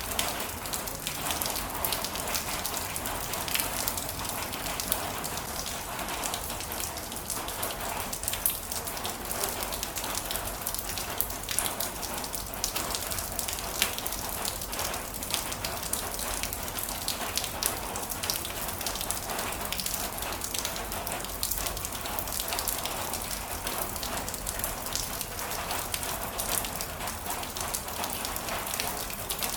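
Heavy rain falling steadily: a dense, even hiss with many sharp individual drop taps.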